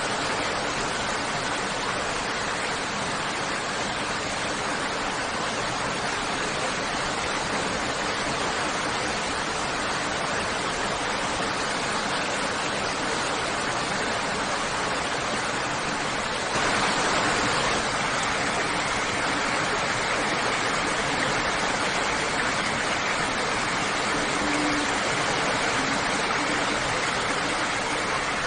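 Steady rushing of running water. About 17 s in it turns a little louder and brighter, and a faint steady tone appears in the rush.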